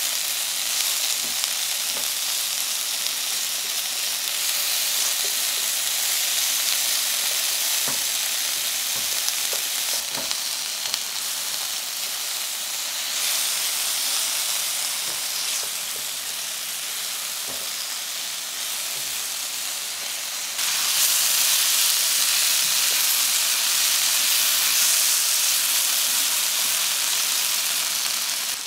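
Chopped shallots and cherry tomatoes sizzling in oil in a frying pan, with light scrapes of a silicone spatula stirring them. The sizzle gets louder and brighter about two-thirds of the way through.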